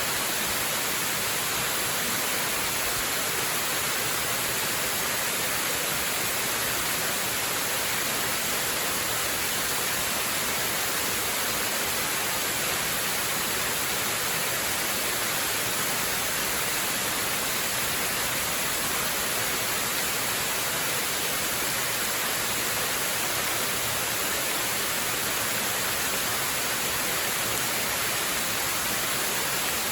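Waterfall: a steady, unbroken rush of falling water, heavier in the hiss than in the low rumble, with no change throughout.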